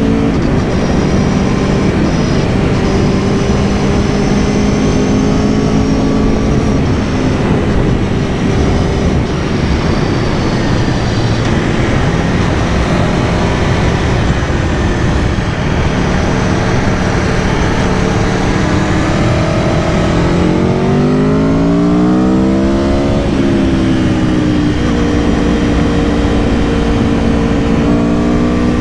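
Aprilia Tuono V4 Factory's 1077 cc V4 engine running under way, under a constant rush of wind. Its pitch holds fairly steady, then about twenty seconds in climbs and drops back again as the throttle is opened and closed.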